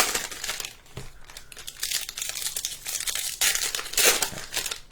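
Plastic wrapping on Bowman trading card boxes and packs crinkling and tearing as they are opened by hand, in irregular crackles that grow louder about two seconds in and again near the end.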